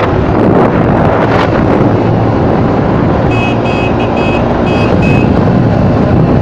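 Hero Passion Pro motorcycle's single-cylinder engine running at speed under heavy wind rush on the microphone. About three seconds in, a string of short, high beeps sounds five or six times.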